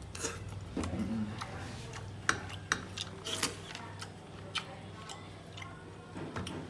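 Irregular light clicks and clinks of tableware during a meal, a few sharper ones about two to three and a half seconds in.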